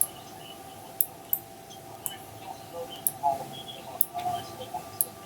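Computer mouse buttons clicking, single sharp clicks about once a second, over a faint steady hum.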